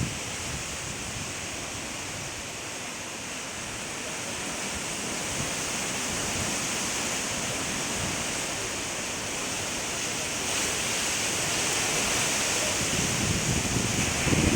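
Windstorm: a steady rushing of strong wind that slowly builds in loudness.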